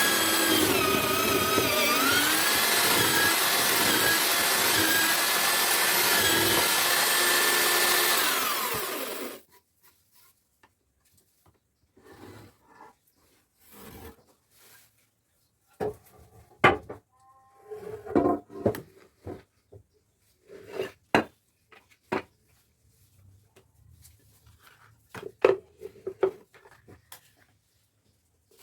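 Homemade drill-powered chisel mortiser running and cutting into wood, its motor whine dipping briefly in pitch about two seconds in, then stopping abruptly about nine seconds in. After that, scattered wooden knocks and clatters.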